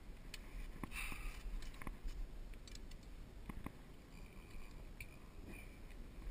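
A few faint, scattered clicks and light rustling over a steady low rumble.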